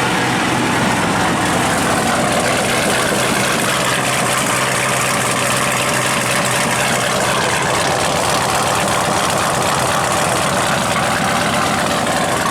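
Supercharged 6.0-litre Chevy LS V8, swapped into an AMC AMX, idling steadily through Dynomax mufflers. The note holds even with no revving.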